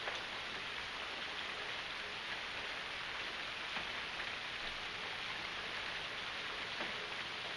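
Steady rain falling, an even hiss, with a few sharper drops or drips now and then.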